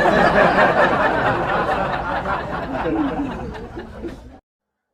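Crowd laughter, as from a laugh track, loud at first and gradually dying down, then cut off abruptly near the end.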